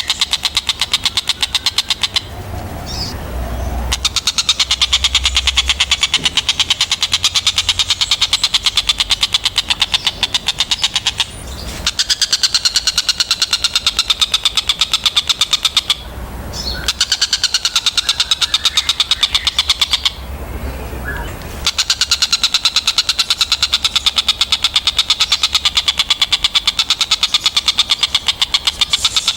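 Tengkek buto kingfisher calling, a loud, very fast run of sharp repeated notes that goes on almost without pause, broken by four short gaps of a second or so.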